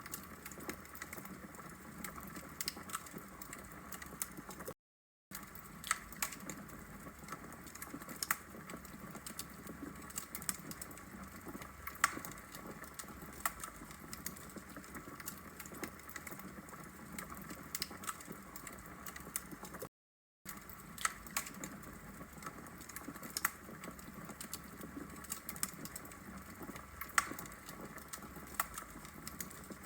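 Burning logs crackling in a fireplace: frequent irregular pops and snaps over a soft steady hiss. The sound drops out to silence briefly twice, about 5 seconds in and about 20 seconds in.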